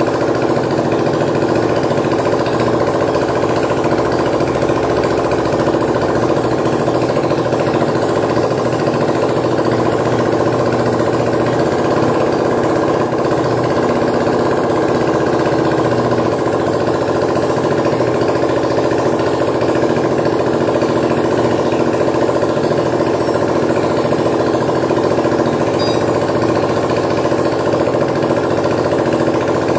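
Bajaj Discover 135's single-cylinder four-stroke engine idling steadily with a rapid, even beat, just rebuilt with a new timing chain adjuster fitted to cure timing chain noise.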